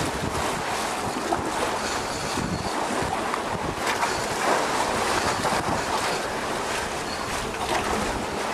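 Wind buffeting the microphone over the steady rush of sea water around a sport-fishing boat.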